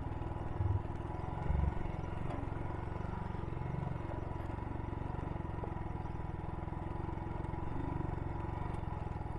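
Royal Enfield Himalayan's single-cylinder engine running at steady revs, with two brief low thumps about a second and a second and a half in.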